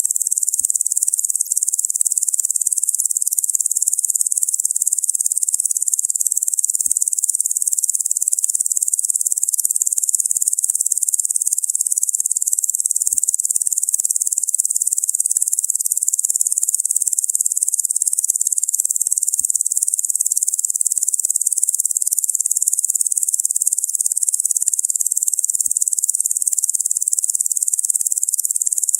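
Locust buzzing without pause, a steady high-pitched shrill drone, with faint scattered ticks beneath it.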